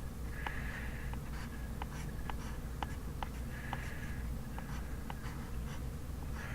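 Handwriting kanji on paper: short scratchy strokes with sharp little taps as strokes begin and end, irregularly spaced, over a steady low hum.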